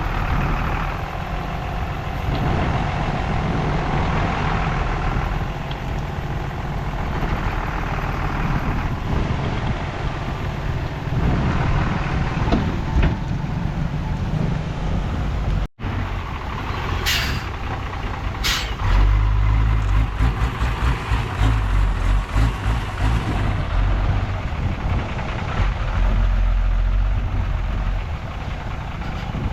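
Heavy diesel engines of a bulldozer and dump trucks running steadily. Two short sharp hisses of air come about two-thirds of the way in, and the engine sound gets deeper and heavier just after.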